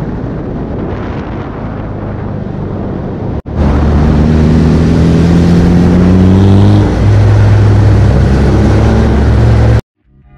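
Car engine running hard, rising in pitch as the car accelerates. The sound cuts out for a moment about three and a half seconds in and returns louder, then stops abruptly near the end.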